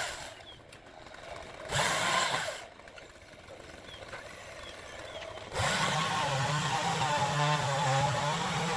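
A chainsaw runs in a short burst about two seconds in; then, from about halfway, a motor runs steadily with a wavering pitch.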